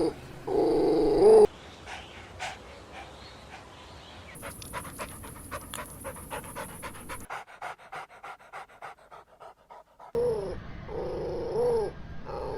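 Puppy whining briefly, then a long stretch of quick, rhythmic panting at about four breaths a second, and more high whines near the end.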